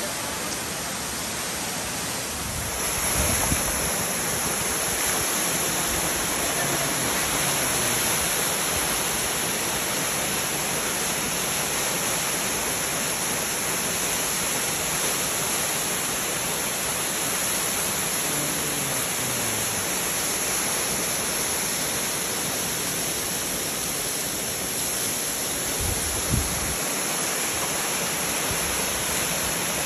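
Steady rush of a waterfall, water falling and splashing in a continuous hiss with no let-up. Two brief low thumps break through, one a few seconds in and one near the end.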